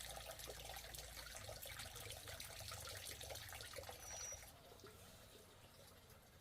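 Faint running, trickling water that stops abruptly about four seconds in, with a brief high squeak just before it stops.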